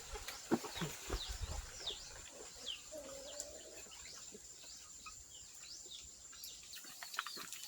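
Small birds chirping again and again in short, quick downward-sweeping notes, over a faint steady high whine. A few soft knocks come in the first two seconds, and a brief lower call sounds about three seconds in.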